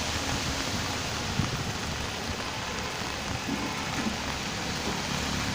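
Steady rain falling, an even hiss, with a low rumble of road traffic underneath.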